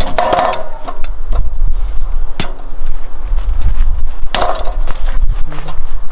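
A few sharp knocks and clatter over a loud, steady low rumble.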